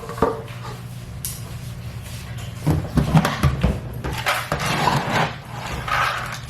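Several knocks and clattering handling noises over a steady low hum.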